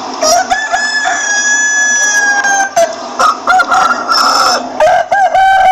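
Rooster crowing: a long held crow of over two seconds, then a run of shorter calls, then another crow beginning near the end.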